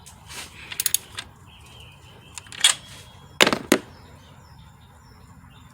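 Ratchet and socket clicking and clanking as the alternator's mounting bolts are tightened: a quick run of clicks about a second in, and two loud metallic knocks about three and a half seconds in.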